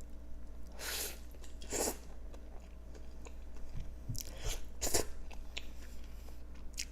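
A person chewing food close to the microphone, with several louder crunching bites about a second in, near two seconds, around four and a half to five seconds, and near the end.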